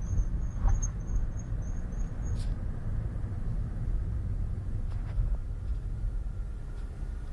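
Car brake squeaking as the car rolls: a short high-pitched chirp repeating about three times a second over a steady low road rumble, which stops about two and a half seconds in, as happens when the brakes are applied. The squeak comes from worn brake pads.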